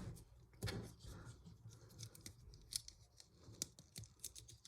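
Plastic LEGO pieces being handled and pressed together: a scatter of faint, sharp little clicks.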